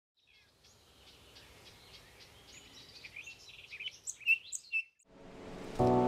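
Several birds singing with quick chirps and trills, growing louder over about five seconds, then cut off suddenly. A rising hiss follows, and music with sustained chords comes in near the end.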